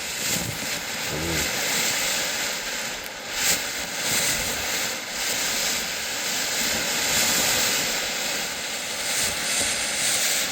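Small 10-gram Vulcan firework fountain burning, its spark spray giving a steady loud hiss with a few brief louder spurts a few seconds in.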